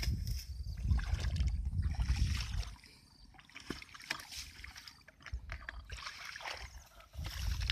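Water sloshing and splashing, with a heavy low rumble for the first few seconds, a quieter middle stretch of small splashes and ticks, and the rumble returning near the end.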